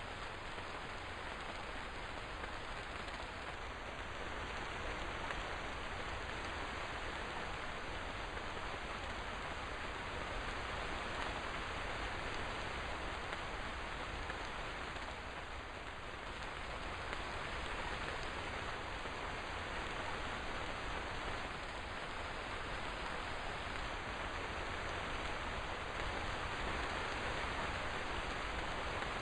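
Steady rain falling, an even wash of raindrops on surfaces with no pauses or sudden sounds.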